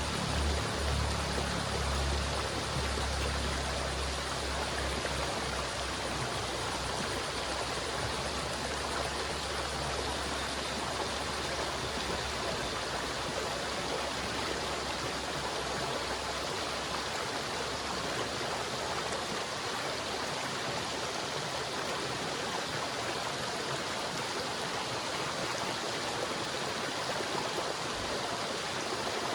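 River water flowing, a steady even rush. A deep rumble underneath fades away over roughly the first fifteen seconds.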